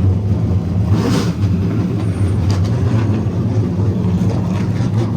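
Race car engines running steadily and loudly, with a brief rush of noise about a second in.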